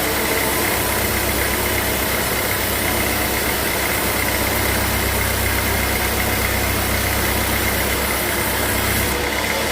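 Sawmill machinery running steadily: a low engine-like hum with a steady high whine, the low hum falling away near the end.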